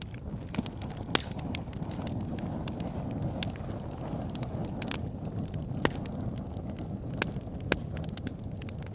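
Wood fire burning in a fireplace: a steady low rush of flames with sharp, irregular crackles and pops from the logs, the loudest ones about a second in and three times in the second half.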